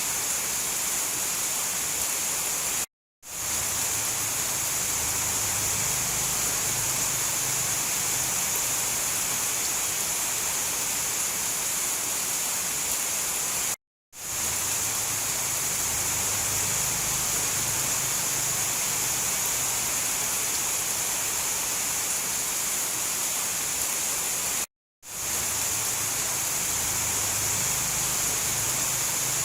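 Steady, hissing downpour of rain, even and unbroken except for three brief cutouts to silence about eleven seconds apart, where the recording loops.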